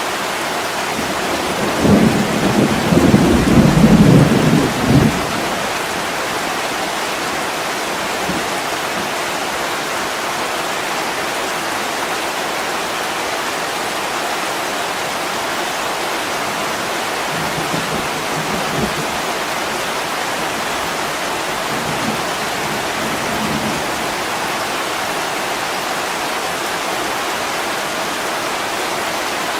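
Heavy rain pouring steadily on a window. A loud rumble of thunder comes about two seconds in and lasts a few seconds, and fainter rumbles follow later.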